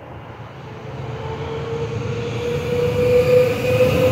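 Stadler Saphir electric railcar approaching. Its running noise grows steadily louder, with a steady whine.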